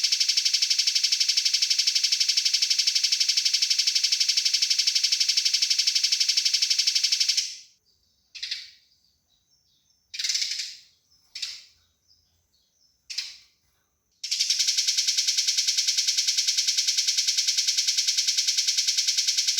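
Eurasian tree sparrow giving its aggressive fighting chatter: a long, rapid, evenly spaced run of harsh high notes. About seven seconds in it breaks off into a few single chirps, then the fast run starts again near fourteen seconds.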